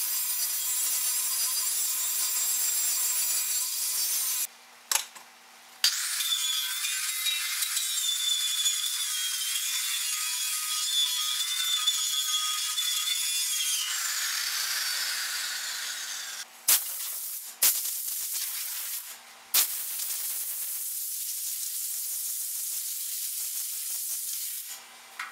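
Angle grinder grinding down a fresh weld bead on a steel tractor rim, a steady hissing grind with a wavering high whine in the middle stretch, stopping abruptly a few times between passes.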